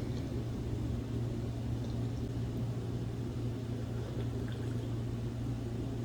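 Steady low electrical hum with a rumble beneath it, unchanging, typical of a running kitchen appliance.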